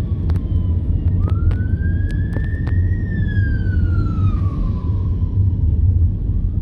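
Emergency-vehicle siren in a slow wail: it rises from about a second in, falls back, and starts to rise again near the end, over the steady low rumble of a car on the road. A few sharp clicks come in the first half.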